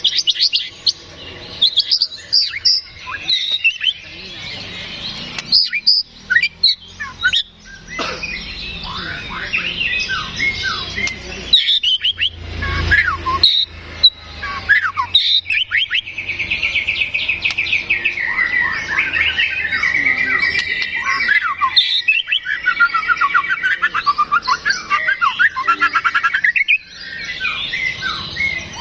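Sparrows squabbling and lovebirds chirping, a dense jumble of sharp overlapping chirps. In the second half a long, fast chattering trill runs for about ten seconds.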